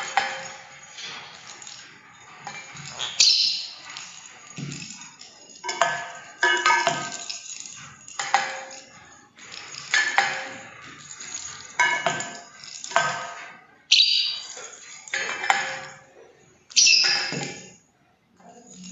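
A series of sharp clinks, about one a second, each ringing on briefly before it fades.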